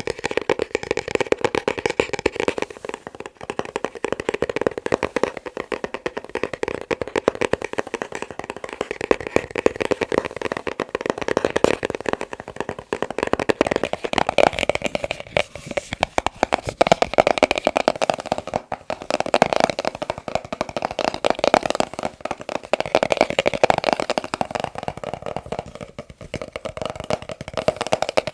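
Fast, continuous tapping on a box, a dense flurry of small clicks and knocks. About halfway through, the hollow ring of the taps changes.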